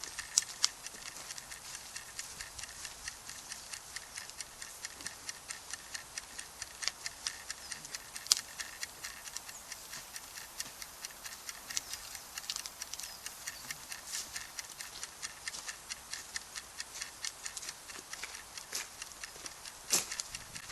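Wood campfire crackling: a steady run of small irregular pops, with a few sharper snaps near the start, about eight seconds in and near the end.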